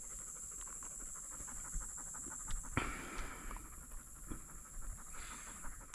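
A hunting retriever dog panting, a quick steady rhythm of breaths.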